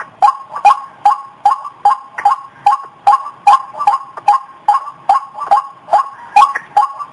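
White-breasted waterhen calling in a fast, unbroken series of harsh notes, about two to three a second.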